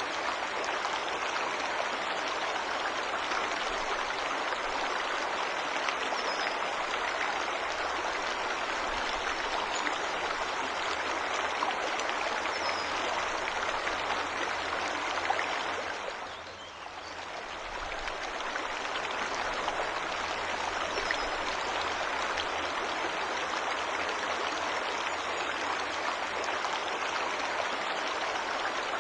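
Waterfall rushing steadily, an even wash of falling water that briefly fades down a little past halfway and comes back up.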